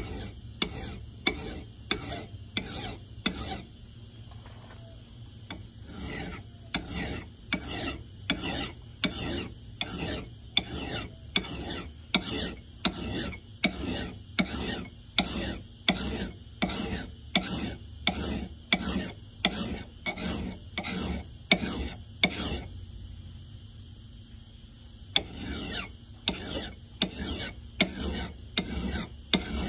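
A hand file rasping across the steel edge of an axe head in even strokes, about two a second, pausing briefly twice, as the edge bevel is filed down.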